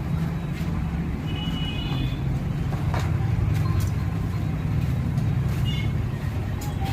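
Suzuki Access 125 scooter's single-cylinder four-stroke engine running steadily, with its timing chain, rockers and camshaft newly replaced.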